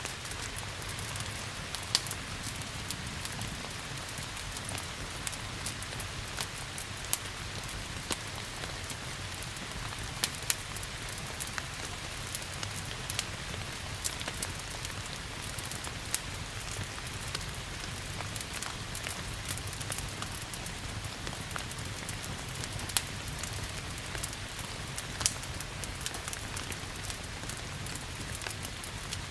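Steady rain hiss with sharp pops and crackles of a wood fire scattered through it, over a low, even rumble.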